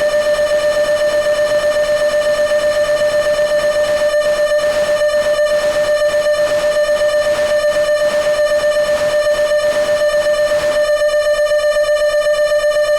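Arturia Buchla Easel software synthesizer holding one steady mid-pitched drone with a fast, even wobble in volume. A noisy, flickering layer joins about four seconds in and drops out near eleven seconds, leaving the bare tone.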